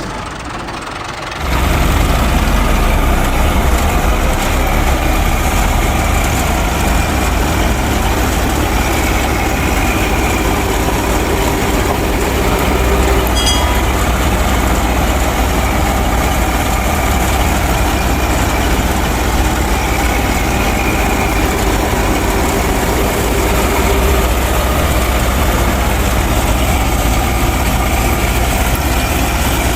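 A machine's motor running steadily, coming in louder about a second and a half in and then holding an even, low-heavy running sound.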